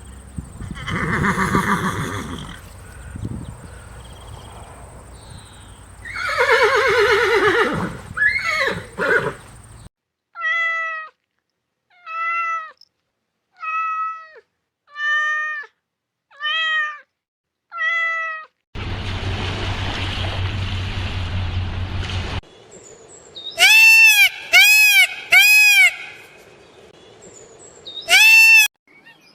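A run of different animal calls in turn. First a series of seven short, evenly spaced calls, then a rough noisy stretch, then several loud arching calls near the end.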